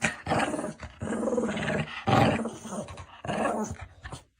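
A dog growling in about five rough bursts with short pauses between them.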